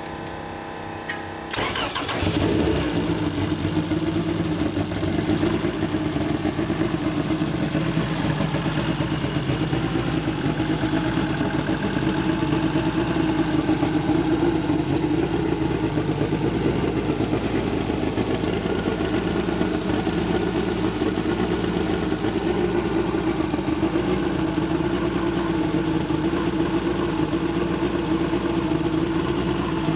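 Turbocharged Honda LS-VTEC four-cylinder with a GT42 turbo starting for the first time: it fires about a second and a half in and settles straight into a steady idle.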